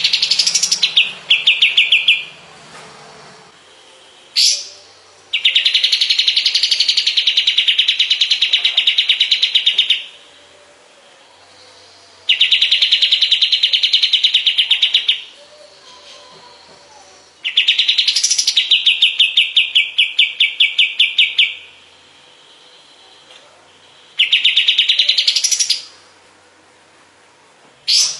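Kapas tembak songbird singing: phrases of fast, rattling repeated notes, each a few seconds long, with short pauses between them and a couple of brief rising whistles.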